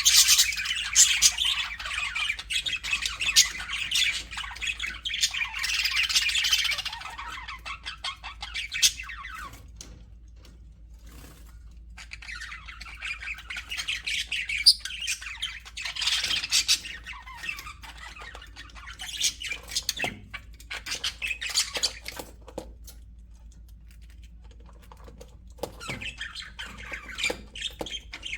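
A flock of budgerigars chattering and chirping in busy bursts. The chatter thins out after about seven seconds, returns in a burst around twelve seconds in, and thins again before picking up near the end.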